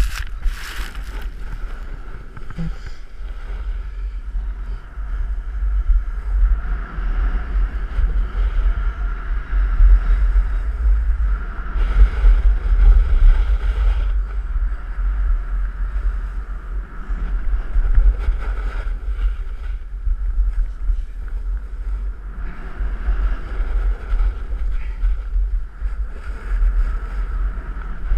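Wind buffeting the microphone with a heavy low rumble, over the steady hiss and scrape of a snowboard sliding and carving on packed snow, swelling and easing as the board turns.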